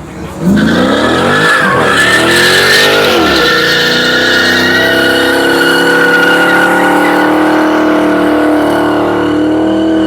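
Dodge Charger's engine revving hard with its rear tyres spinning and squealing in a burnout. The revs swing up and down a couple of times in the first few seconds, then hold high with a steady tyre screech.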